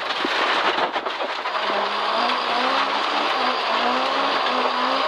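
Rally car driven hard on a forest stage, heard from inside the cabin: a steady rush of tyre and road noise, with the engine note repeatedly rising and dipping from about a second and a half in as the driver works the throttle and gears.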